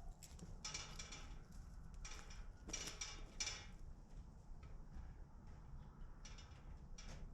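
Chickens calling: a string of short, high-pitched calls, several close together in the first half and two more near the end, with quiet pauses between.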